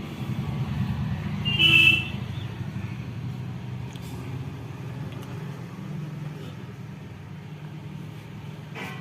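Street traffic rumbling steadily, with a short car horn toot about a second and a half in.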